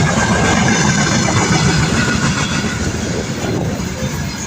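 A 2ES6 electric freight locomotive running hard, a loud, steady rail rumble with a faint high hum from its traction motors.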